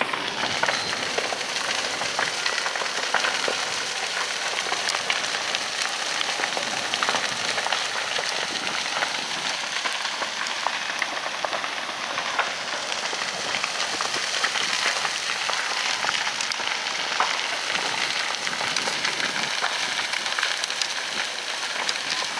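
Large fire crackling and popping steadily, a dense stream of rapid small cracks over a rushing hiss.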